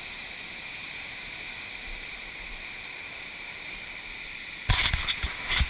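Steady rushing of a creek's waterfall. Near the end, loud irregular thumps and rumbling break in over it.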